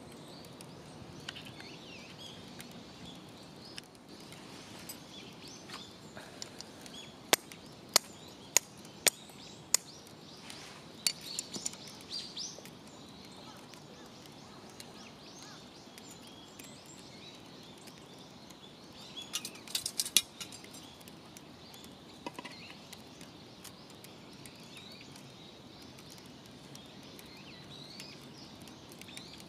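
Outdoor ambience with birds chirping faintly over a steady hiss. A run of five sharp clicks comes about a quarter of the way in, then a short flurry of clicks, and a louder cluster of clicks about two-thirds of the way through.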